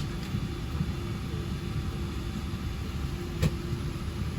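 Airliner cabin ambience inside a Boeing 777-300 at departure: a steady low rumble of air-conditioning and aircraft systems with a constant hum, and a single sharp click about three and a half seconds in.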